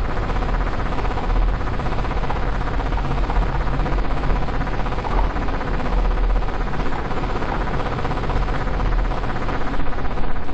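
CNC milling-engraving machine running: steady mechanical noise with a faint steady whine.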